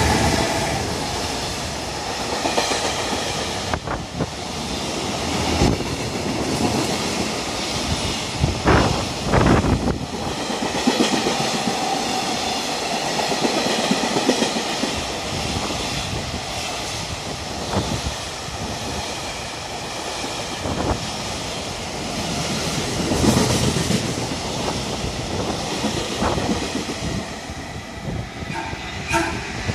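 Container freight train hauled by an EH500 electric locomotive running through the station, its wagons' wheels clattering over rail joints with a steady rumble and a few louder knocks. Later the freight recedes and a second train, an 811 series electric unit, is heard approaching on the next track.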